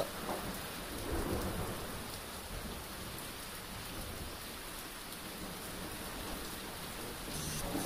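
Heavy monsoon rain pouring down steadily, with low thunder rumbling underneath.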